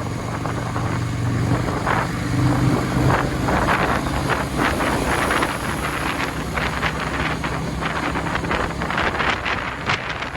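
Motorcycle engine running steadily under way, with wind gusting over the phone's microphone.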